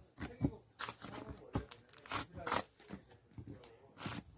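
Slime being squeezed and pulled apart by hand: a quick, irregular run of short crackles and squishes.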